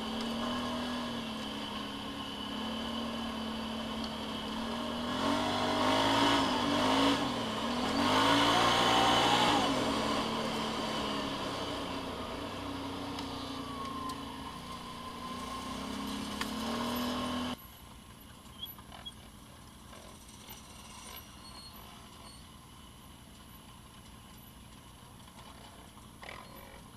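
Off-road vehicle engine running and revving up and down, at its highest revs in the first third. It stops abruptly about two-thirds of the way in, and a few faint clicks follow.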